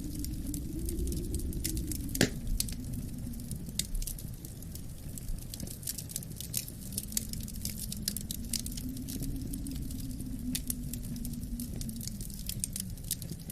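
Wood fire crackling with scattered sharp pops, one loud crack about two seconds in, over a low wind moaning that slowly rises and falls.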